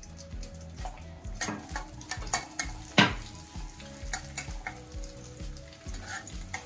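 Chopped garlic and ginger sizzling in a little hot oil in a metal wok as they are stir-fried. A steel spatula scrapes and clinks against the pan again and again, loudest about three seconds in.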